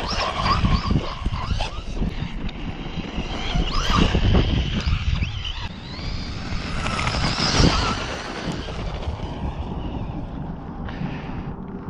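Traxxas Rustler 4x4 RC truck driven hard, its electric motor and gears whining up and down with the throttle, with wind on the microphone. The whine surges loudest around four seconds in and again past seven seconds.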